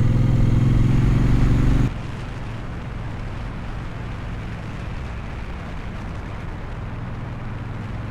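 Motorcycle engine running steadily while riding. About two seconds in, the loud engine note cuts off suddenly and gives way to a quieter, steady engine hum mixed with wind rush.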